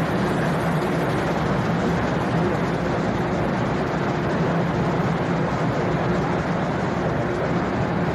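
A stationary 500 series Shinkansen with its doors open, its onboard equipment giving a steady hum and rush of noise.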